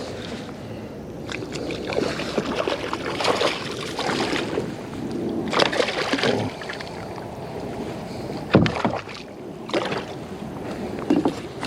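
Kayak sounds: irregular water splashing and rustling, with several sharp knocks in the last few seconds.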